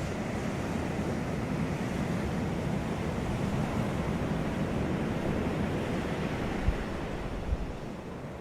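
Sea surf washing onto a beach in a steady rush that eases off a little near the end. Two brief low thumps come about seven seconds in.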